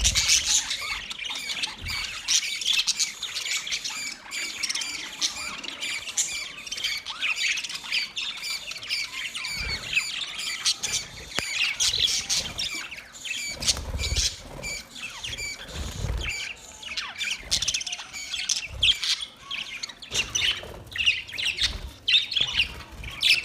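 A flock of budgerigars chattering continuously, a dense mix of quick chirps, warbles and squawks, with a few soft low thumps here and there.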